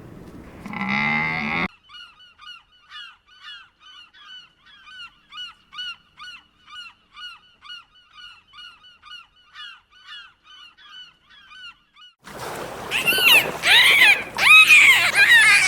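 The tail of a cow's moo, then about ten seconds of quick, evenly repeated short chirps, roughly three a second. From about twelve seconds in, loud goose honks, each call arching up and down in pitch.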